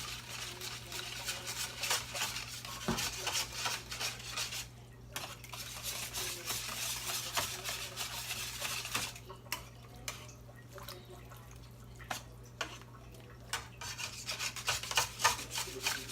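A spatula stirring and scraping a watery seasoned cream-soup mixture around a pan of beef roasts, with many light clicks and knocks against the pan. It pauses briefly a few times.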